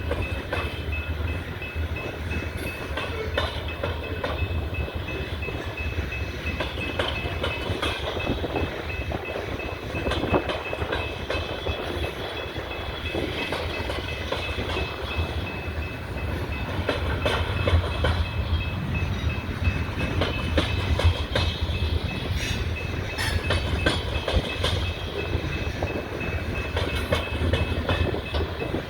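Freight train cars rolling past, with a steady low rumble and frequent sharp clicks of wheels going over rail joints.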